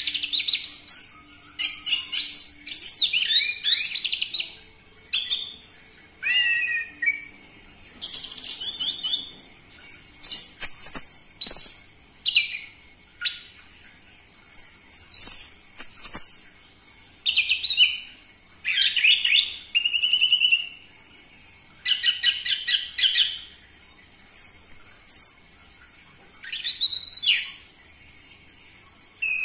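Orange-headed thrush singing: loud, varied phrases of quick high trills and whistled notes, each a second or two long, with short pauses between them.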